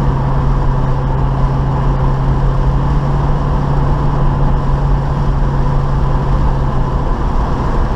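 1972 Chevy Nova's 350 small-block V8 running steadily while driving, with road noise. Its note drops slightly in pitch about seven seconds in.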